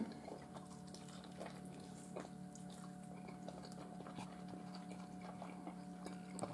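Faint chewing and small mouth clicks from someone eating chicken, over a steady low hum.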